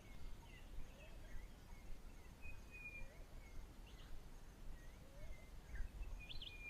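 Faint outdoor bush ambience with distant birds calling: thin, scattered whistles and short gliding notes, then a quick run of chirps near the end, over a low steady rumble.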